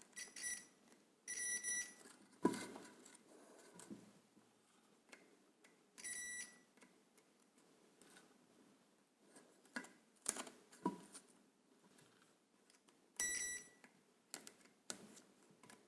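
Multimeter continuity tester beeping three times, each a short steady beep, as its probes are touched to the washing-machine motor's coil wires; the beep signals an unbroken circuit through the winding. Light clicks and taps of the probes and wires in between.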